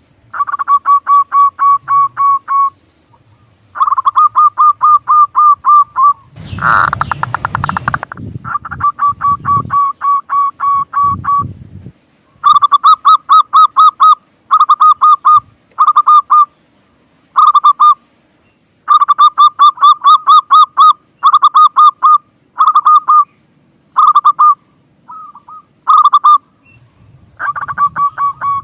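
Zebra dove (perkutut) cooing in runs of rapid repeated notes, each run lasting one to three seconds with short pauses between. About six and a half seconds in, a loud burst of noise lasting over a second covers the calls.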